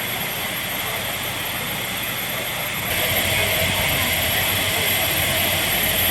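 Steady hissing roar of a locomotive standing at the station platform, growing louder about three seconds in.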